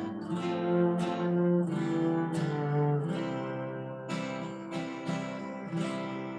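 Instrumental music for a closing hymn: chords struck or strummed about once or twice a second over sustained notes.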